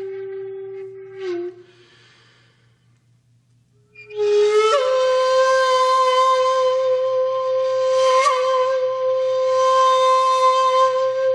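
Music on a flute-like wind instrument holding long, steady notes. One note ends about a second in; after a short pause a higher note slides in and is held for several seconds.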